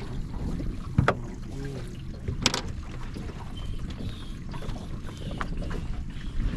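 Wind buffeting the microphone aboard a drifting fishing boat, a steady low rumble, with two sharp knocks, about a second in and again about two and a half seconds in.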